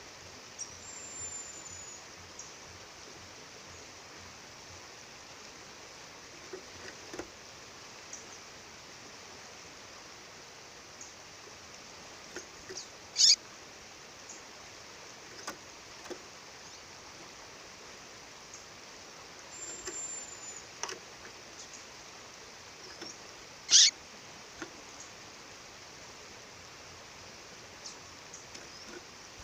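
A female songbird calling over the steady rush of a waterfall. It gives two short, sharp, high calls about ten seconds apart, the loudest sounds here, and a few faint thin whistles and chirps between them.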